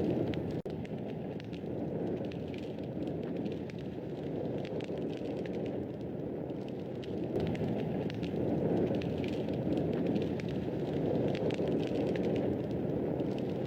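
Fire in a fireplace crackling steadily: a constant low rush of flames with many small, sharp pops and snaps.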